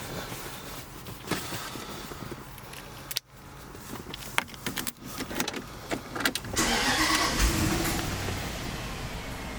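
Clicks and knocks of keys and the car's controls, then the supercharged 4.2-litre V8 of a 2007 Range Rover Supercharged cranking and catching about six and a half seconds in, settling to a steady idle.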